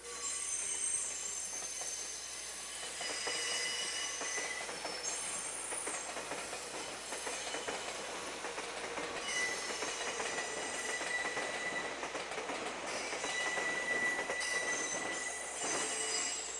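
Electric multiple-unit train creeping through depot points and curves, its wheels squealing in high tones that come and go over a rattling of wheels on rail joints.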